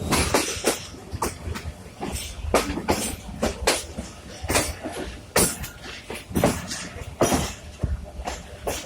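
Train clattering on the rails: irregular sharp knocks, one to three a second, over a steady low rumble.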